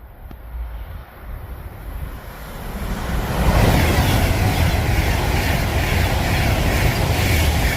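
Avanti West Coast express train passing close by, a rushing rumble that builds over the first few seconds and then stays loud.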